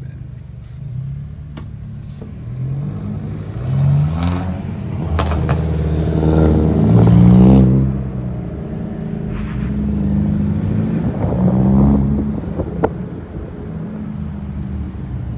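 Renault Mégane IV GT 205's 1.6-litre turbocharged four-cylinder engine and exhaust under acceleration, pitch rising in several pulls and dropping between them. The loudest pull is about halfway through, and a few short clicks come through.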